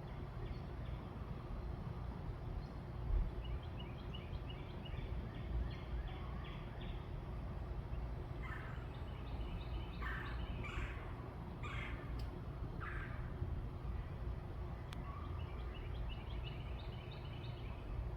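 Backyard birds calling. There are quick series of short, high notes, and in the middle about five louder, harsh calls, over a steady low background rumble.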